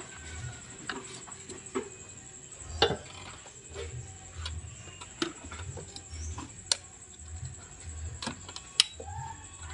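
Scattered sharp clicks and knocks of tools and parts being handled, a second or two apart, over a low uneven rumble and a faint steady high whine.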